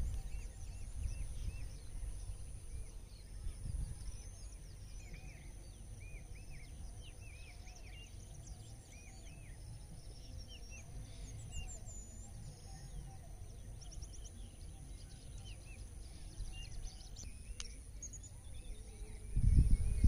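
Small birds chirping, many short rising-and-falling calls scattered through, over a low, fluctuating rumble of wind on the microphone and a faint steady high hiss.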